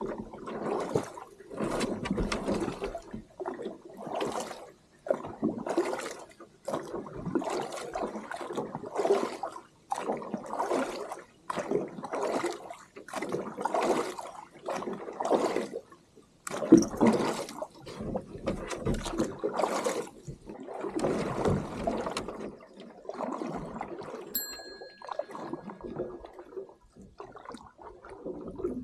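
Water sloshing and splashing in a long run of repeated strokes, roughly one a second, with a short high beep-like tone about 24 seconds in.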